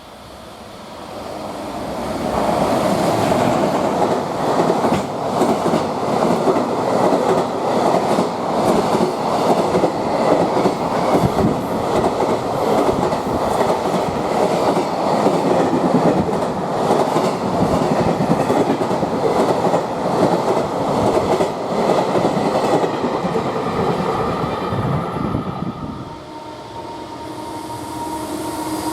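Freight train running through a station at speed, its wagon wheels clattering over the rail joints. The sound builds over the first two seconds and drops away about 26 seconds in, when a steady whine begins.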